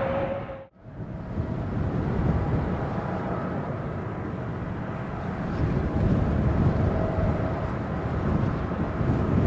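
Jet airliner engine noise with a steady whine, which cuts out abruptly under a second in; then a steady low rumble of jet engines mixed with strong wind on the microphone, swelling near the end.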